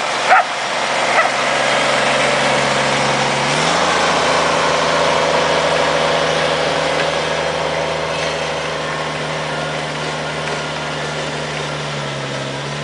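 Tractor engine running steadily; its revs step up about three and a half seconds in and settle back down near the end. A dog barks once at the very start.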